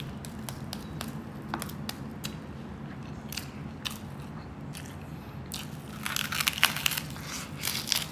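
Close-up crunching of crispy lechon kawali (deep-fried pork belly) skin being bitten and chewed: scattered crackles at first, then loud, dense crunching from about six seconds in.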